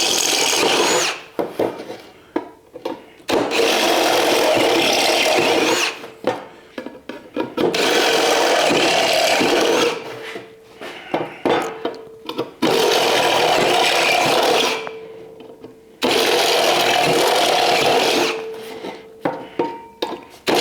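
Power drill boring through 16-gauge sheet steel, widening small pilot holes: about five runs of roughly two seconds each, with a steady motor whine under the cutting. Short knocks and clicks come between the runs.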